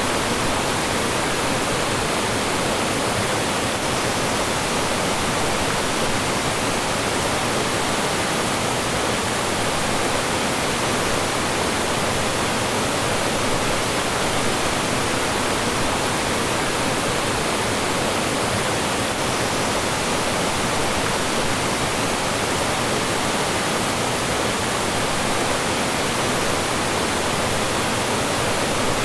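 Mountain stream rushing and splashing over rocks and small falls, a steady even roar of water that does not change.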